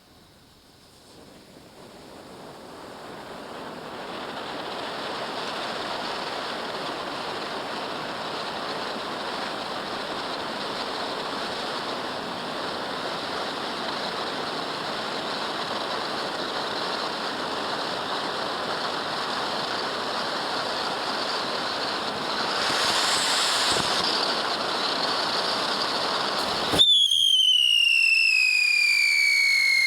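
Tiger's Roar XL firework fountain spraying: a hiss that builds over the first few seconds into a steady crackling spray, swelling briefly near the end. Then it switches abruptly to a loud whistle that slowly falls in pitch.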